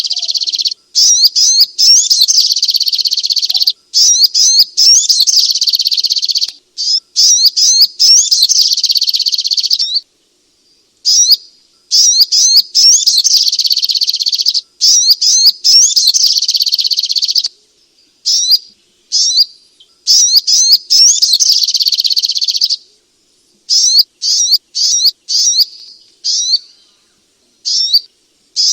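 Sogok ontong (spiderhunter) song: loud, rapid, high chattering phrases lasting a few seconds each, broken by short pauses, with quicker stuttering bursts near the end.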